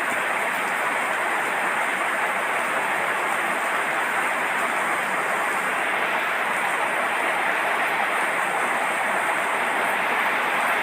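Rain falling steadily: an even, unbroken hiss that neither rises nor falls.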